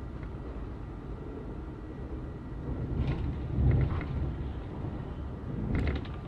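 Commuter train running, heard from inside the carriage: a steady low rumble of the wheels on the rails. It grows louder about three seconds in, with a few short clatters.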